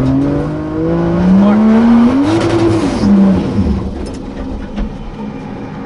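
Nissan 240SX's turbocharged 2JZ inline-six revving up under heavy throttle. Its pitch climbs for about two and a half seconds, holds briefly, then falls away as the throttle comes off about three seconds in, settling quieter.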